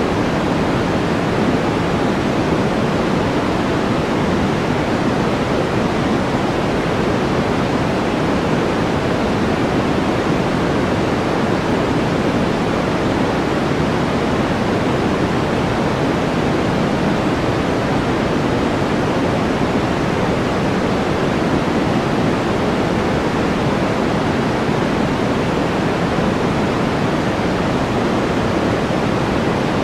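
Steady white-noise background: an even, unbroken hiss that never changes, fuller in the low-middle range than in the treble.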